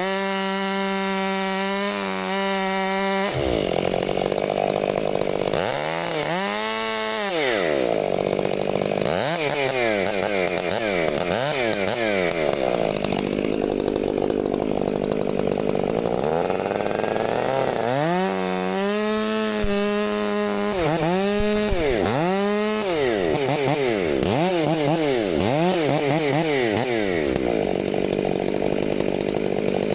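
Gas chainsaw running at high revs, then cutting wood, its engine pitch rising and falling again and again as the throttle is worked and the chain takes load.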